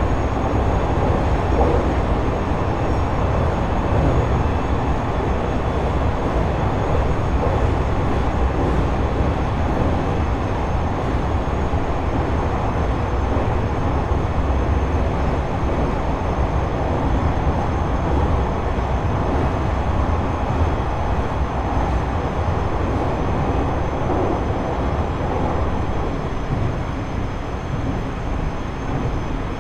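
Running noise heard inside a JR East E127 series electric motor car (KuMoHa E127-11, Toyo Denki GTO-VVVF) travelling at steady speed between stations: an even rumble of wheels on rail, with faint steady high tones above it.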